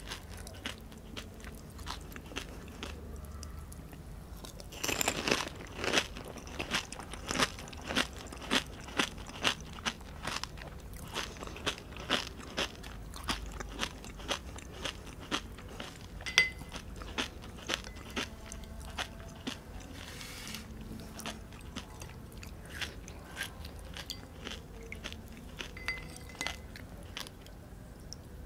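Pani puri being chewed: the crisp fried puri shell crunches in the mouth about five seconds in, followed by a long run of sharp crackling chewing crunches that thin out later on.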